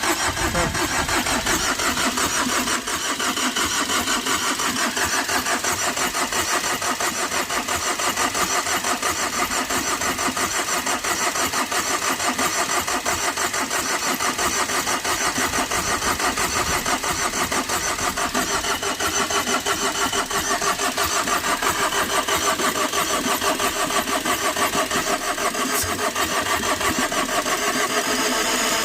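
Tata Vista diesel engine cranking on its starter motor in one long, steady crank that starts abruptly, turning over evenly without catching. The owner puts the no-start down to weak compression, a head gasket that has likely blown from overheating.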